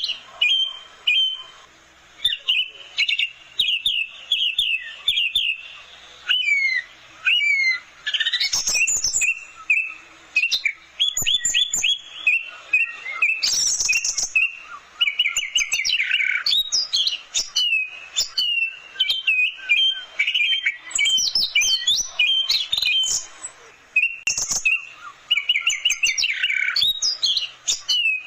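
Orange-headed thrush singing a long, varied song of rapid trills, whistled glides and chirps, in phrases broken by short pauses.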